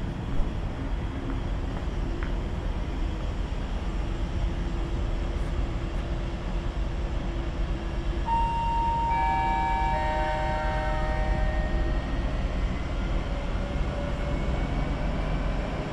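Electric trains pulling into the station: a steady low rumble, with several steady whining tones that come in one after another about eight seconds in and stop about four seconds later.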